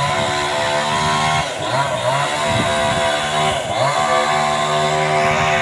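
A small engine running steadily, its pitch dropping briefly and picking up again twice, as if the throttle is eased off and reopened.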